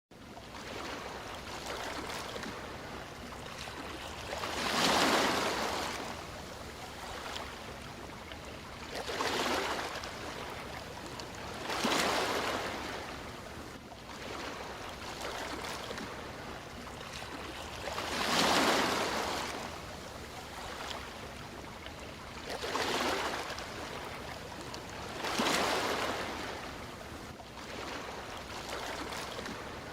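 Sea waves breaking on a shore: six waves, each a rising and falling rush of surf, with a steady low wash between them.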